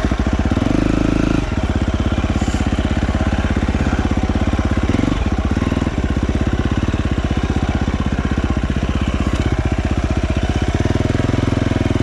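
Dirt bike engine running at low revs, with louder bursts of throttle about a second in and again near the end.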